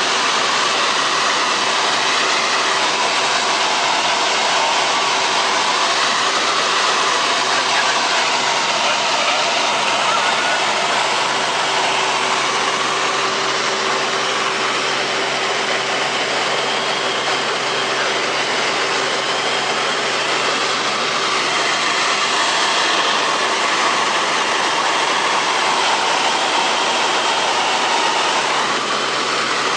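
Helicopter in flight heard from inside the cabin: a steady, loud engine-and-rotor drone with a constant hum running through it.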